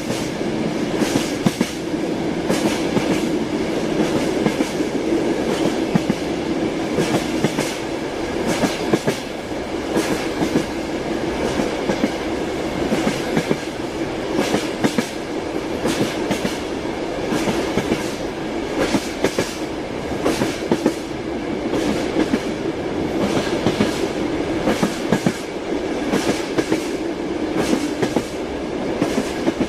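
Moving train, its wheels clattering over the rail joints: sharp clicks at an uneven spacing over a steady hum.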